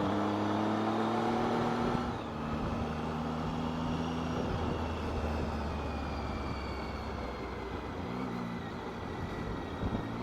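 Motorcycle engine running under way, its pitch climbing slightly and then dropping about two seconds in, then holding fairly steady with another small change near the end.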